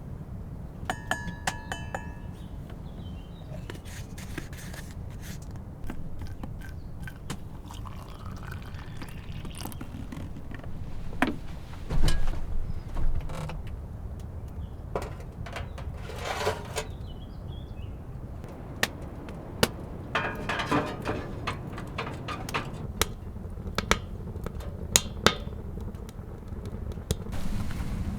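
Low, steady wind rumble, with scattered knocks, clicks and scrapes of objects being handled at close range. There is a brief ringing, metallic-sounding clink about a second in, and the loudest knock comes about twelve seconds in.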